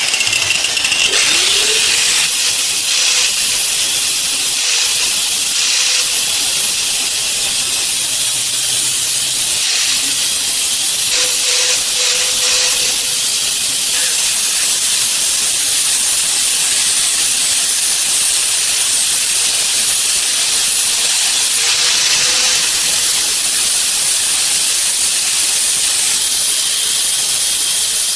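Steady, high-pitched hiss of pressurized air spraying without a break, holding an even level throughout.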